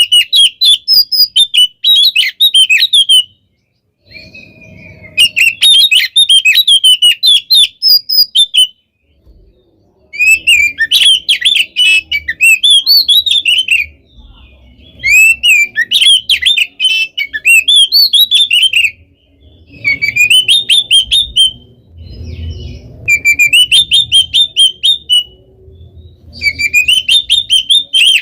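Oriental magpie-robin (kacer) singing loudly in about seven rapid bursts of varied whistled and chattering notes. Each burst lasts a few seconds, with short pauses between them.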